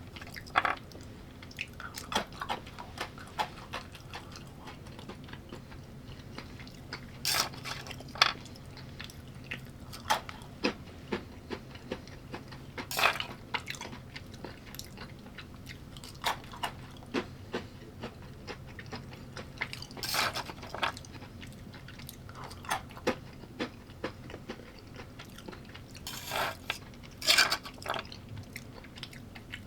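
Close-up eating sounds: a person biting and chewing a meal of carrots, arugula, pecans, bacon, beef, egg, avocado and cheese, with crisp crunches at irregular intervals. A steady low hum runs underneath.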